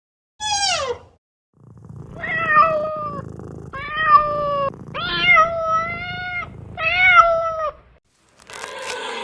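Domestic cat meowing: four drawn-out meows in a row. A short falling call comes just before them, and a rough noisy sound starts near the end.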